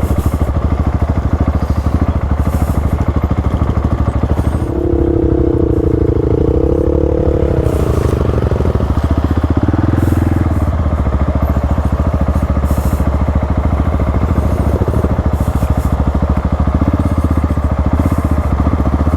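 Single-cylinder trail motorcycle engine running steadily at low speed. A wavering higher tone rises and falls for a few seconds near the middle.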